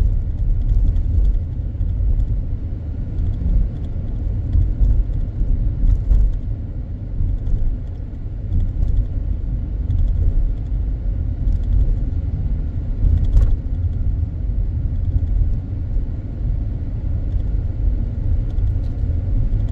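Steady low rumble of a car in motion, engine and tyre noise heard from inside the cabin, with a faint click about 13 seconds in.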